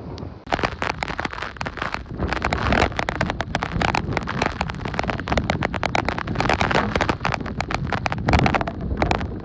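Hurricane wind buffeting the microphone, with rough gusting rumble and dense, irregular crackling hits throughout.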